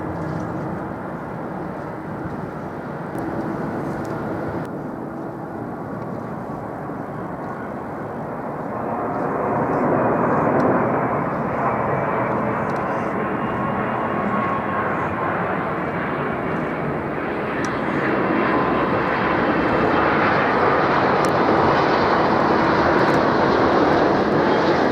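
Jet airliner engine noise: a steady rushing sound that swells about a third of the way in and grows louder again, with more hiss, over the last third as the aircraft comes closer.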